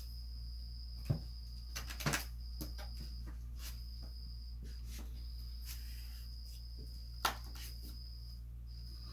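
A steady low hum with a high, thin continuous tone that stops and starts every second or two. A few sharp clicks come about a second, two seconds and seven seconds in.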